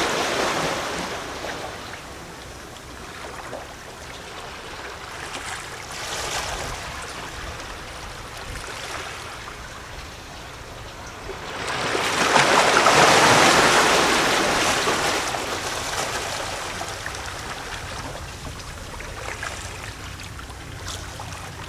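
Small sea waves lapping and gurgling against a rocky shore. A wash ebbs away at the start, smaller swells follow, and a bigger wave surges in about twelve seconds in, the loudest moment, then drains away slowly.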